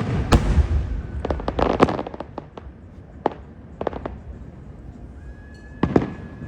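Aerial fireworks going off: a sharp bang at the start, a rapid crackling cluster of pops about a second and a half in, and scattered pops after it. Near the end a steady high whistle sounds, followed by two more bangs.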